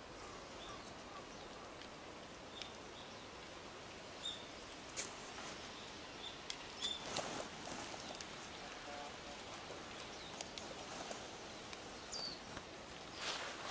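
Quiet outdoor ambience: a steady faint hiss with scattered short, high bird chirps and a few light rustles and clicks, the rustling growing louder near the end.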